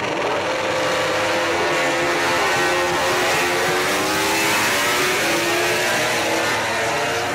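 MotoGP racing motorcycles' four-cylinder 1000 cc engines running at high revs. Several engine notes overlap, with pitch rising steadily as they accelerate.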